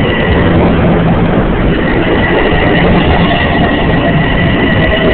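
A train running through the station: a loud, steady rumble with a steady high tone over it.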